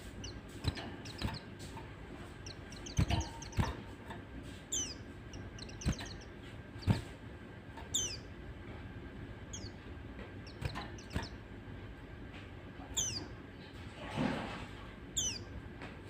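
White-eye (pleci) giving short, high chirps that drop in pitch, one every second or two, among scattered sharp clicks and knocks.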